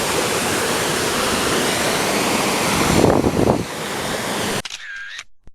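Steady rushing of water flowing in a stream, with a louder low swell about three seconds in. It drops to a quieter stretch after an abrupt cut and then stops suddenly.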